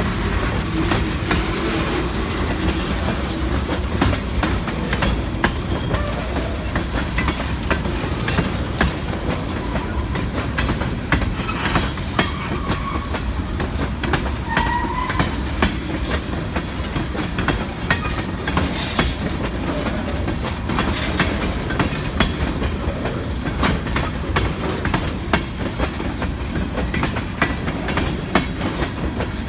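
Train cars rolling past slowly, their wheels clicking steadily over the rail joints above a low rumble, with a brief faint wheel squeal about halfway through.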